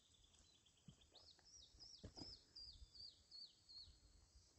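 Faint song of a small bird: a fast trill falling in pitch, then a run of about eight high slurred notes, about three a second. A few soft low knocks sound under it.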